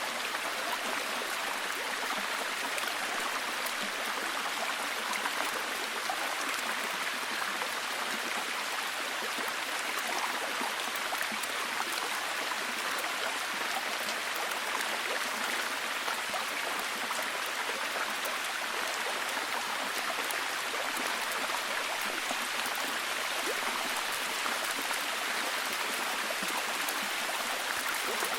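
Steady heavy rain falling, an even hiss dotted with small scattered ticks of individual drops.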